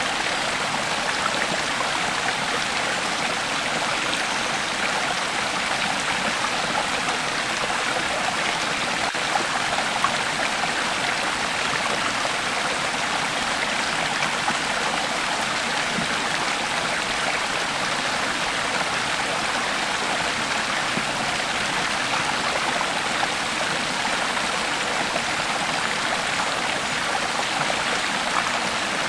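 A creek flowing steadily, water running and splashing over rocks in an even rush.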